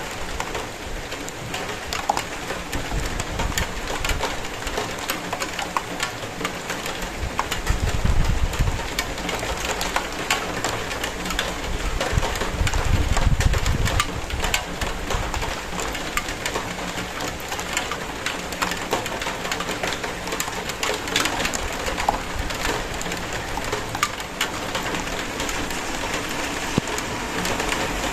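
Steady rain falling, a dense hiss with many sharp individual drop impacts. A low rumble swells twice, about eight seconds in and again around thirteen seconds.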